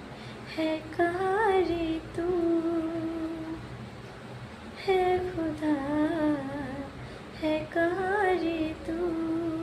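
A woman singing unaccompanied, in four phrases with wavering pitch and long held notes, a slow Hindi song melody.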